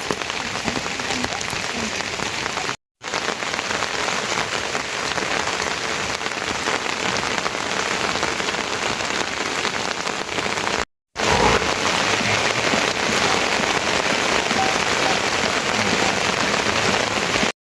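Heavy rain falling steadily, a dense hiss of drops on surfaces, broken twice by brief dead-silent gaps about 3 and 11 seconds in.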